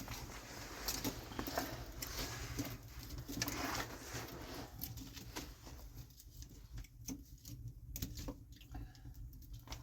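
Irregular rustling and light tapping, dense at first and thinning out after about five seconds, over a low steady rumble.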